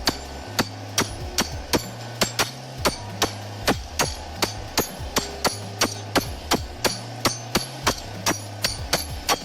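Rapid, evenly paced hammer strikes, about two to three a second, each a sharp hit with a short ring.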